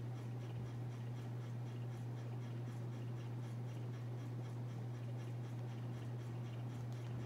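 Harbor Breeze Armitage 42-inch ceiling fan running: a steady low motor hum with a faint, evenly repeating light scratching tick.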